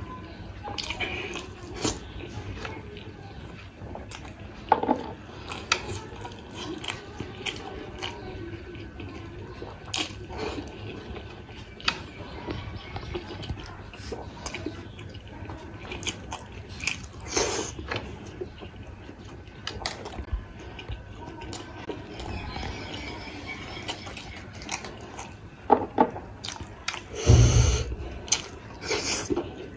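Close-miked eating: a person hurriedly biting and chewing buff momos (water-buffalo steamed dumplings), with many short wet mouth clicks. A louder burst of noise comes about 27 seconds in.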